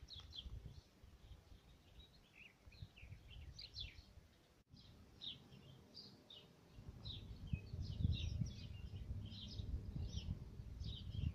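Small songbirds chirping and twittering, many short high calls in quick succession, over a low fluctuating rumble. The sound drops out for an instant about halfway through.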